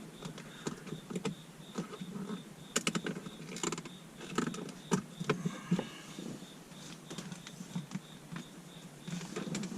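Clicks, taps and rustles of hands working the dash cam's power cable and plug around the car's plastic dashboard trim, with a faint high-pitched tone pulsing about three times a second in the background.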